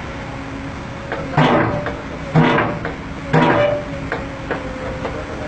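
Heavy machinery running with a steady hum, broken by three loud, harsh bursts about a second apart.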